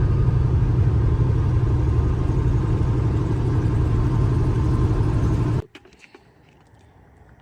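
Semi truck's diesel engine and road noise droning steadily inside the cab while driving, then cutting off abruptly about five and a half seconds in, leaving only a faint background.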